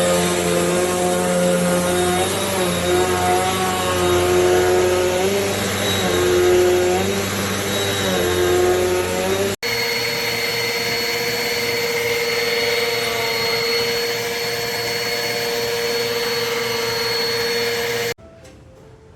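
Amazon Basics upright bagless vacuum cleaner running, a loud motor whine and airflow rush. In the first half its pitch wavers up and down; it breaks off sharply about halfway and resumes as a steadier whine, then stops suddenly near the end.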